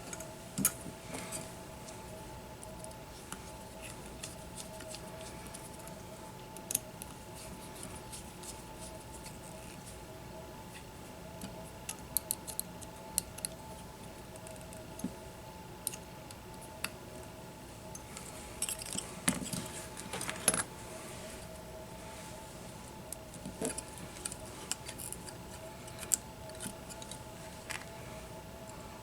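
Small metal parts and tools handled on a workbench during a drone frame repair: scattered light clicks and metallic clinks, busiest around twelve and twenty seconds in. A steady faint two-tone hum runs beneath.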